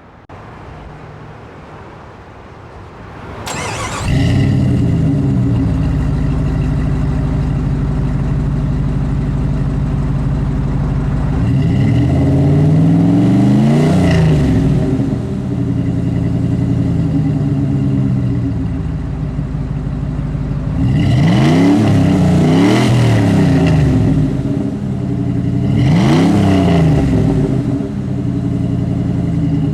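1998 Jeep Grand Cherokee's 5.2L V8 through a Flowmaster 50 Series SUV cat-back exhaust catches about four seconds in. Its revs settle to a steady idle, then it is blipped several times: once around the middle, twice in quick succession later, and once more near the end, each rev rising and falling back to idle.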